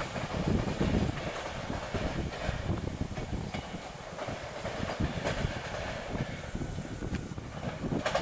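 Passenger train rolling away over the rails: a steady low rumble of the coaches with irregular clacks from the wheels.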